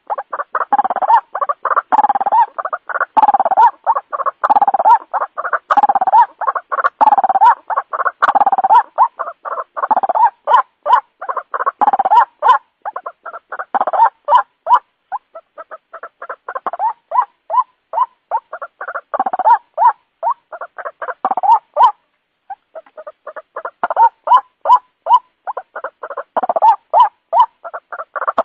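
White-breasted waterhen calling: a rapid, unbroken series of harsh 'kru-ak' notes, about two to three a second, with a short break about three-quarters of the way through. This is the lure call used to draw waterhens in.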